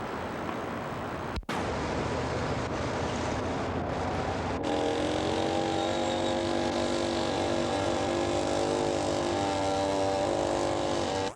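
Motor vehicle traffic noise, a steady rush with a brief dropout about a second and a half in. From about four and a half seconds in, a steady droning hum with several pitches joins, and the sound cuts off abruptly at the end.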